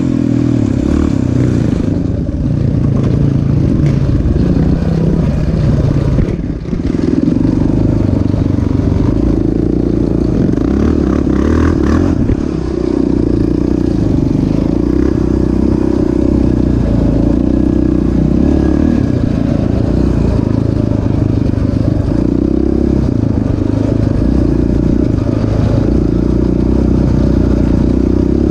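Single-cylinder off-road engine running hard on a motocross track, its revs rising and falling over and over as the throttle is worked, with a brief drop about six seconds in.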